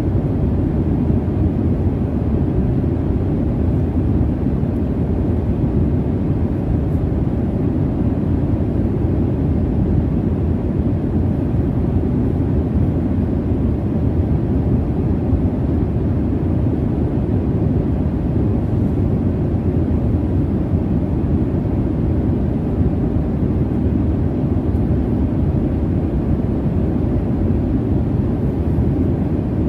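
Steady low rumble of jet engine and air noise heard inside an airliner's cabin in flight, even and unchanging, with a faint steady hum in it.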